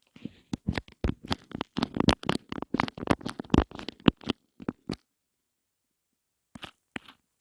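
Rapid ASMR tapping close to the microphone: quick, irregular taps and clicks with soft thumps, packed densely for about five seconds, then stopping dead into silence, with a few taps returning near the end.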